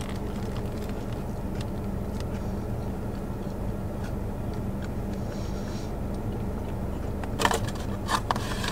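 Steady low hum inside a parked car with its engine running, under quiet chewing. Near the end, a few sharp crackles of a paper fast-food bag being handled.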